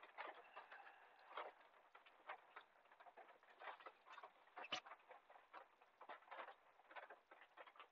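Faint rain pattering on a car's roof and windows, an irregular scatter of small drop ticks, with one sharper, louder tick a little past the middle.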